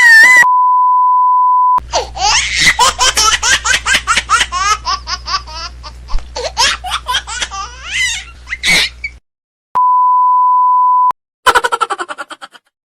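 Stock comedy sound effects: a steady censor-style bleep, then several seconds of rapid, high-pitched laughter over a low hum. A second identical bleep follows, then a short burst of quick laughter.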